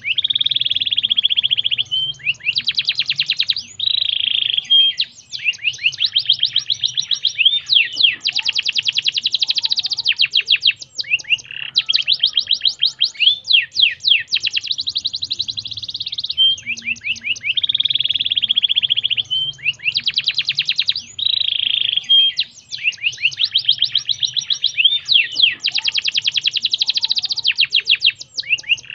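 Domestic canary singing continuously in fast trills and rolling runs of rapidly repeated high notes, the phrases changing every second or two. The same song passage recurs about every 16 seconds, as in a looped recording.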